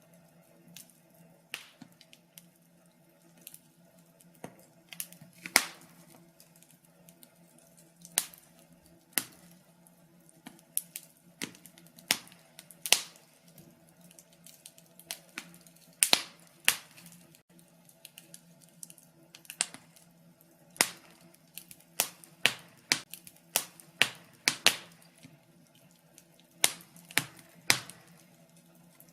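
Wood fire in a fireplace crackling, with irregular sharp pops and snaps of differing loudness, sometimes several in quick succession, over a faint steady low hum.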